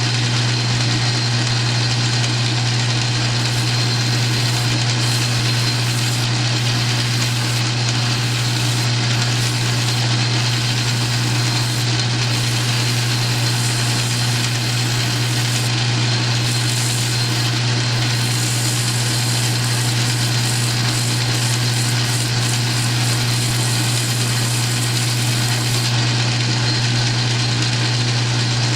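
South Bend metal lathe running steadily, its motor giving a strong, even low hum.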